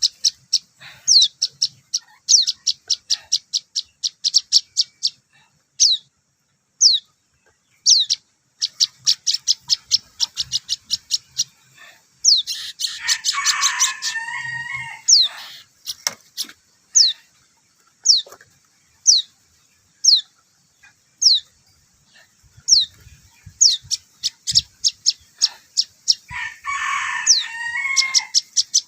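Young prinia (prenjak) calling while being hand-fed: short, high, falling chirps, some spaced about a second apart and others in fast runs. It gives two louder, harsher scratchy bursts, one around the middle and one near the end.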